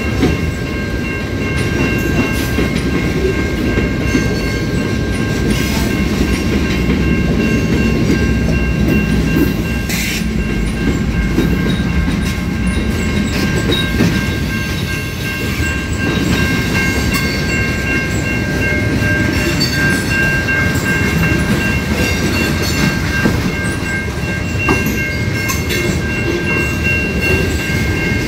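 A train rolling through a level crossing: a steady rumble of the cars with wheels clicking over rail joints, and several steady high-pitched tones ringing over it.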